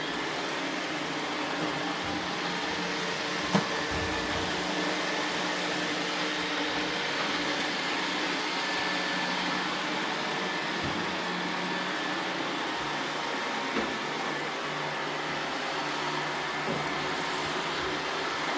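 iRobot Roomba robot vacuums running steadily, a whirring hum of motor and brushes, with a sharp knock about three and a half seconds in and a smaller one near the end.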